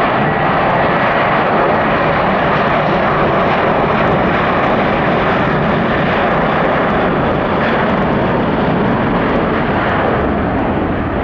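Airbus A300-600F freighter jet close by, its engines a loud, steady rush of jet noise that eases slightly near the end.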